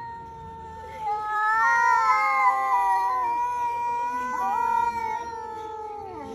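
Cat caterwauling: long, drawn-out wavering yowls that grow much louder about a second in and ease off near five seconds.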